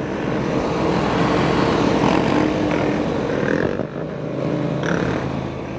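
Several motorcycle engines running and revving together, a steady loud mix of engine noise with a few bikes' tones standing out.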